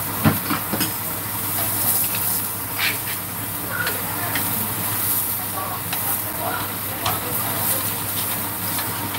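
Abalone frying in oil in a stainless steel pan, a steady sizzling hiss, with several sharp clicks of chopsticks and a spatula against the pan as the pieces are turned; the loudest click comes just after the start.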